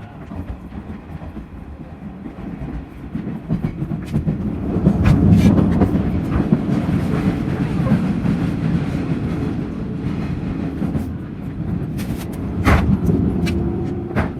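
Electric train running, a steady rumble that swells about four seconds in, with the clack of wheels over rail joints near the end.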